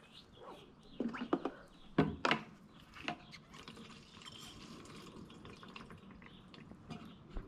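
Gasoline dripping and trickling from a siphon hose into a gas can, with a few sharp knocks of the hose and can being handled in the first three seconds.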